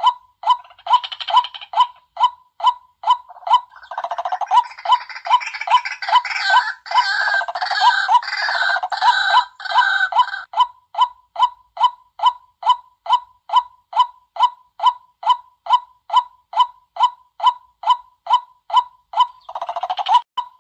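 White-breasted waterhen calling: a steady run of short 'kwak' notes, about two and a half a second, broken from about four to ten seconds in by a louder burst of harsh, overlapping croaking. A lure call for drawing in waterhens.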